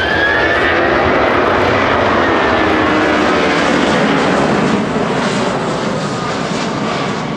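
Boeing 757 jet engines roaring loudly as the airliner flies past, with a whining tone gliding in pitch in the first second; the roar eases off a little about five seconds in.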